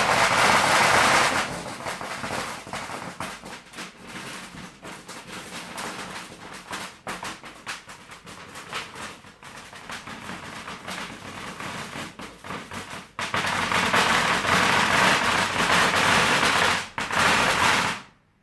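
Fireworks going off: a loud, dense rush of noise, then a long run of separate irregular pops and bangs, then another loud, dense spell about two-thirds of the way through that cuts off suddenly near the end.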